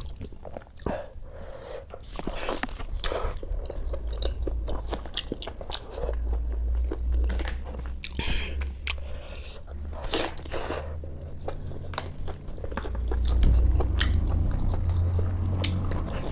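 A person chewing and biting while eating mutton and rice by hand, with irregular sharp mouth clicks throughout.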